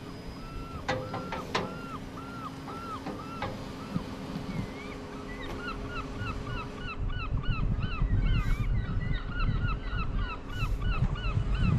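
A flock of birds calling: a few short calls repeating about twice a second, then many overlapping calls from about halfway through. Under them runs a steady low hum, with a low rumble rising about two-thirds of the way in.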